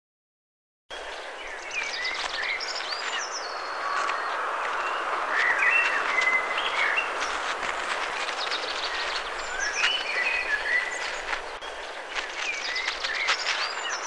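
Outdoor natural ambience: a steady rushing hiss with birds chirping every few seconds and scattered small clicks and rustles, starting about a second in after silence.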